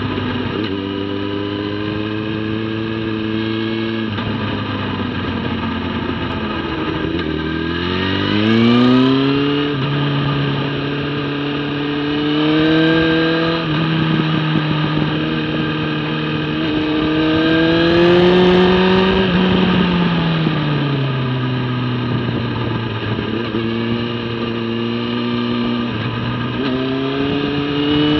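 Motorcycle engine running at speed, heard from a camera on the bike's tail: its note climbs in pitch several times as the throttle is opened and falls back when it is rolled off.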